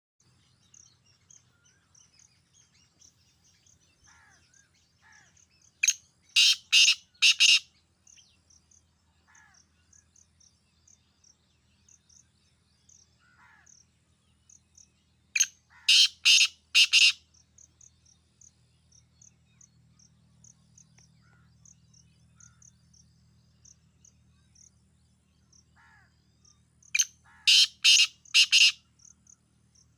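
Black francolin calling three times, each call a short opening note followed by four loud, harsh notes in quick succession, with faint insect chirping steady underneath.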